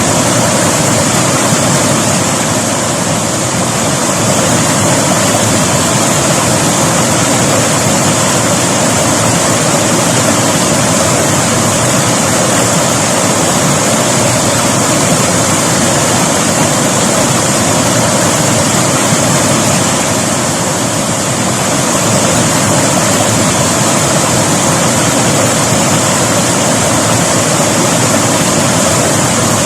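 River water rushing steadily over its bed: a loud, even sound of flowing water.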